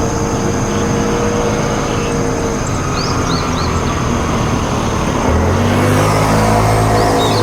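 Motor vehicle engine noise running steadily, with a deeper engine sound coming in about five seconds in. A few short, high bird chirps sound over it, a cluster about three seconds in and more near the end, and a steady high-pitched whine runs underneath.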